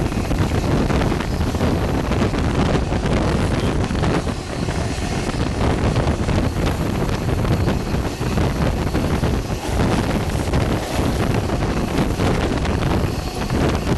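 Passenger train running at speed: a steady loud rumble and clatter of the cars on the rails, with wind buffeting the microphone.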